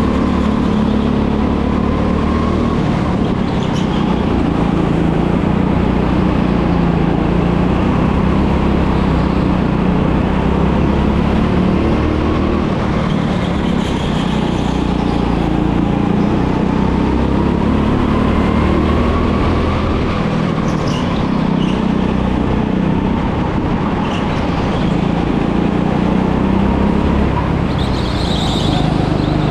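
Go-kart engine running at speed, its pitch slowly rising and falling as it speeds up and slows, over a steady rush of wind and road noise.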